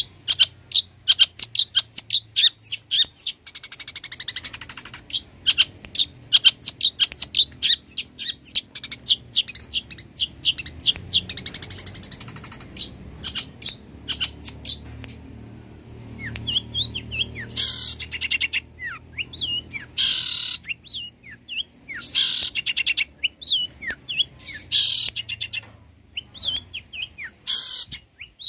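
Long-tailed shrike (cendet) singing: a fast run of sharp, high chirps through the first half, then short falling whistles broken by about five harsh, raspy bursts.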